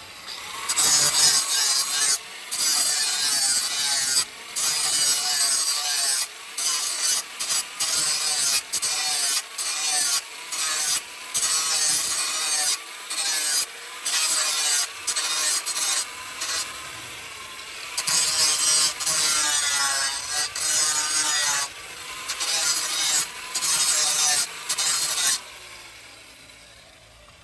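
Steel being cut, ground and filed by shop tools, in many short segments that start and stop abruptly. Scraping, rasping work with a wavering whine, fading out near the end.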